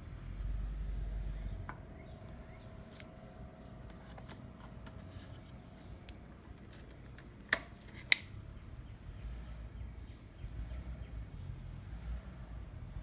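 Small clicks and handling noises from a motorcycle's controls being worked before starting, with two sharp clicks about half a second apart near the middle. The engine is not yet running.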